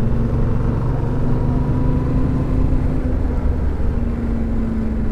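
Suzuki motorcycle engine running at a steady pace with even, unchanging pitch, over a low rumble of wind and road noise.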